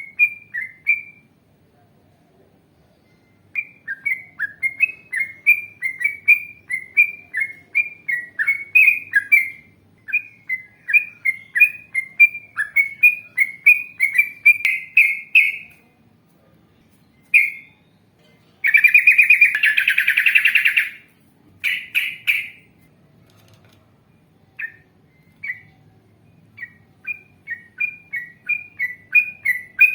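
Yellow-vented bulbul (trucukan) singing: long runs of rapid, repeated chirping notes broken by short pauses, with a harsh buzzing rattle about two-thirds of the way through.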